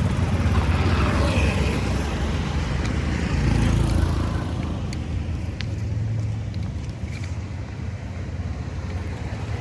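HMT tractor's diesel engine running steadily with a low rumble, a little louder for the first four seconds and then easing.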